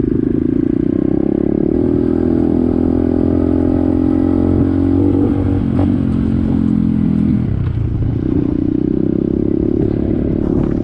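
Pit bike engine running under way, its note holding steady, easing off briefly about seven and a half seconds in, then picking back up.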